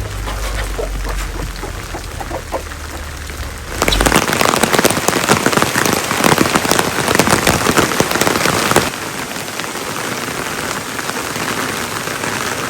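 Rain falling steadily, with a low rumble underneath for the first few seconds. For about five seconds in the middle the rain is suddenly louder and denser with many fine drop ticks, then drops back to a softer steady patter.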